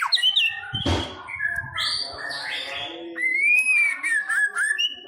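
White-rumped shama (murai batu) singing a varied run of clear whistled phrases that glide up and down, mixed with a harsh rasping note about a second in and scratchy chatter in the middle.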